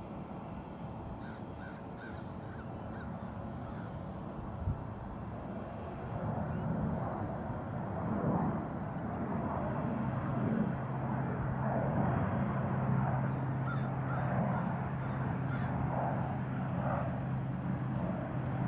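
Jet aircraft flying over, its rushing noise building about a third of the way in and holding, with a low steady hum joining about halfway through. Birds call over it, with harsh crow-like calls near the end.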